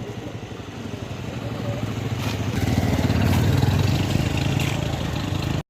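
A motor vehicle's engine approaching: it grows steadily louder over the first few seconds, stays loud, then cuts off suddenly near the end.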